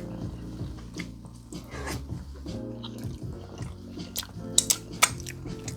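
Someone chewing and smacking food, with a few sharp mouth clicks about four to five seconds in, over quiet background music.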